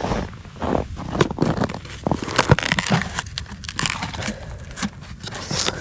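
Crinkling and rustling of something being handled, with many irregular clicks and knocks.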